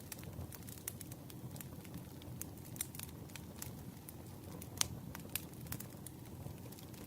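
Campfire burning: a steady low rumble of flames with irregular sharp crackles and pops of burning wood, the loudest pop a little before the five-second mark.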